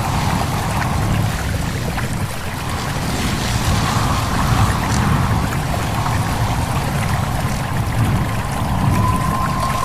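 Stream babbling steadily over rocks, mixed with wind. A thin, steady whistle-like tone comes in near the end.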